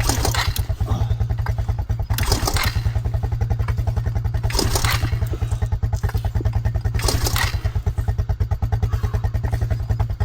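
An ATV engine idling steadily, while the stalled four-wheeler's recoil starter is pulled four times, about every two and a half seconds, each pull a short rasp. The engine turns over on the pulls but does not start.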